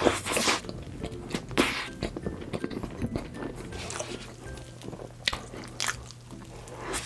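Close-miked eating of cake: bites, chewing and mouth sounds in irregular bursts over background music with a steady low bass.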